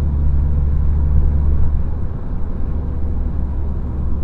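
Volkswagen Jetta running with its resonator removed and an aftermarket muffler fitted, giving a steady, deep exhaust rumble.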